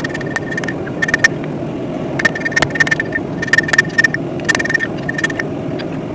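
Hand hammer striking hot, thick steel on an anvil, the anvil ringing between irregular groups of blows, over a steady low rushing noise. The steel is being flattened and drawn out, and it moves slowly under the hammer.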